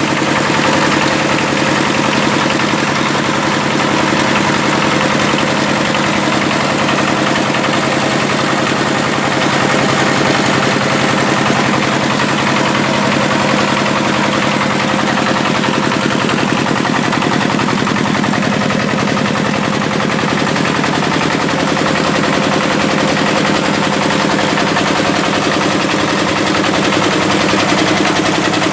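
Power tiller engine running steadily at a constant speed, driving a mini rice mill, with a fast even pulsing and mill machinery noise over it.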